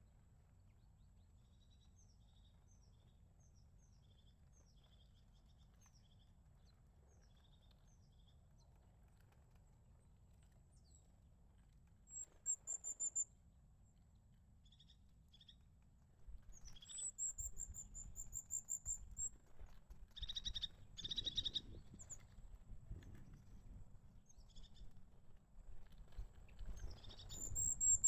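Crested tits calling: faint, short, high thin notes at first, then from about halfway louder, rapid high trills and chattering calls.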